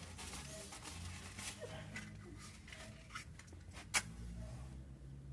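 Paper burning in an open fire, crackling with scattered small pops and one sharper snap about four seconds in, over a steady low hum.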